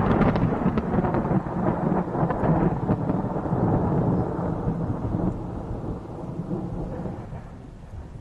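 Thunder rumbling and slowly dying away, the last crackles fading in the first seconds and the low rumble growing quieter toward the end.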